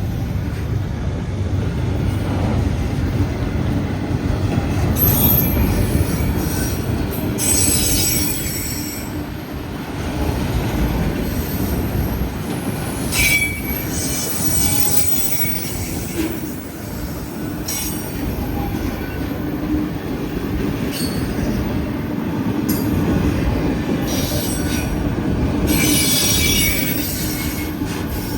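Freight train rolling past, a steady low rumble of cars on the rails, with metallic wheel squeal rising and fading several times.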